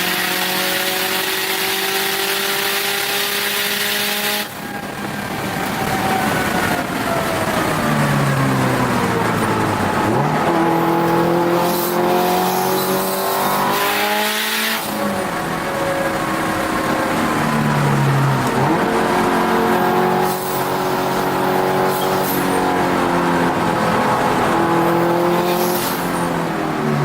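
Turbocharged Subaru WRX STi flat-four engine heard from inside the car on track, its note climbing under full throttle. About four seconds in it drops away and falls for several seconds as the car lifts and slows, then climbs again, with short breaks at gear changes.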